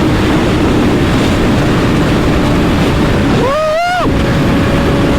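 Sport motorcycle riding at speed, with wind rushing over the microphone over a steady engine drone. About three and a half seconds in, a brief higher tone rises and holds for half a second, then the drone carries on.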